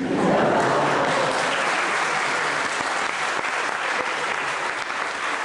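Audience applauding: it breaks out suddenly and then holds steady, easing slightly.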